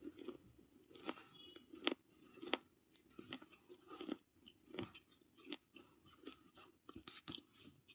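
Person chewing pieces of baked clay, a steady run of sharp, gritty crunches roughly once or twice a second, with softer grinding between bites.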